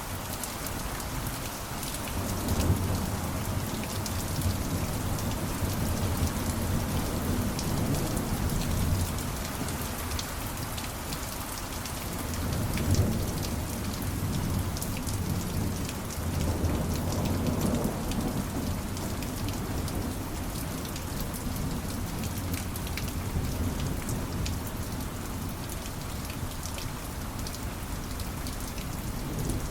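Steady heavy rain falling, with fine drop ticks throughout. Low thunder rumbles swell and fade several times, strongest in the first third and again past the middle.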